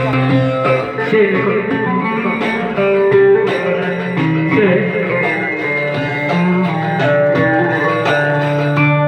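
Electric bağlama (saz) playing a folk melody in quick successions of plucked notes.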